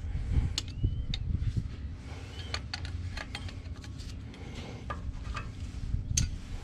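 Metal tools and steel parts clinking and tapping as they are handled during front hub and brake work: a string of sharp irregular clinks, one with a short metallic ring.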